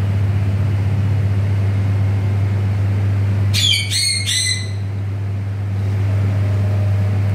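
A pet parrot gives about three short, high squawking calls in quick succession about three and a half seconds in, over a steady low hum.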